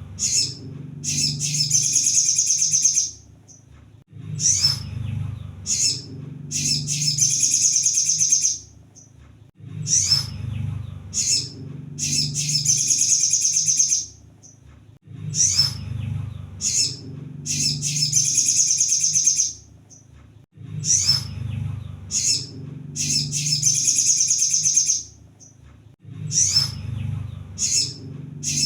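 Kolibri sogon (a sunbird) singing high-pitched phrases in a loop: a few short sharp chirps, then a fast trill lasting about two seconds, repeating about every five and a half seconds. A low rumble runs underneath.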